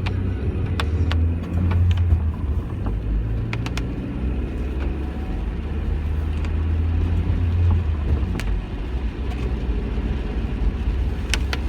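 Steady low rumble of a car on the road, with a few sharp ticks scattered through it.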